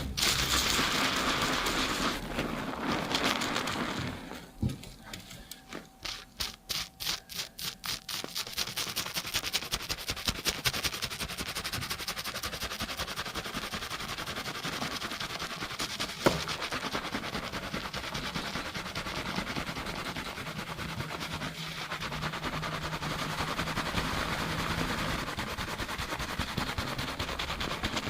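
Fingers scrubbing a shampoo-lathered scalp at high speed: a fast, even rhythm of wet, foamy rubbing strokes.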